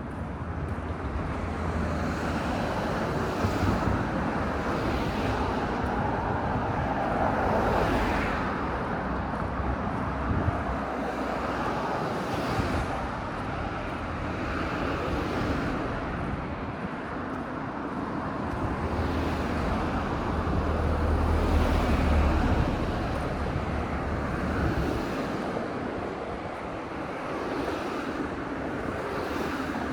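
Street traffic: cars passing one after another, their tyre and engine noise swelling and fading, with a low engine hum at the start and again about two-thirds of the way through.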